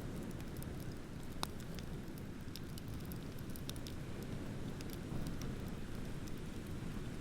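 Wood bonfire crackling, with scattered sharp pops (one stronger about a second and a half in), over a steady low rush of ocean waves.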